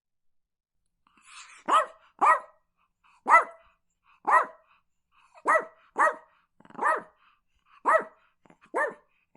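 Chihuahua barking: nine short, high-pitched barks at roughly one a second, some in quick pairs, starting about a second and a half in.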